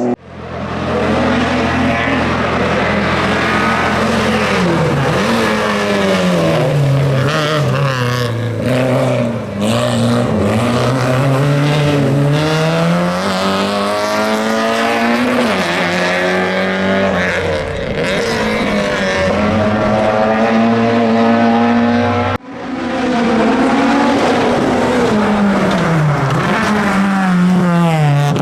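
Competition car engine driven hard, its revs repeatedly climbing and dropping through gear changes and lifts off the throttle. The sound breaks off abruptly about two-thirds of the way through and picks up again at high revs.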